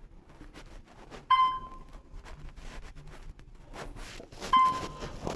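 Two short pitched dings about three seconds apart, each starting sharply and fading within about half a second, with faint scattered clicks between them.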